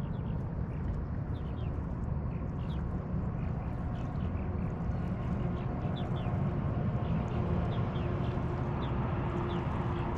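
A steady low rumble with a faint engine hum that grows a little stronger past the middle, typical of a motorboat on the water, while short high bird chirps repeat throughout.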